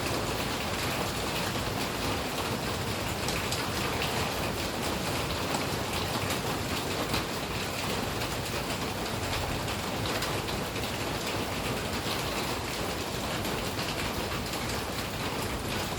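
Steady rain falling, many small drop ticks over an even hiss.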